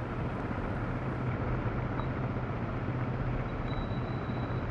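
Yamaha Serow's single-cylinder four-stroke engine running steadily under a rider on a downhill dirt track, with a steady rush of wind and tyre noise.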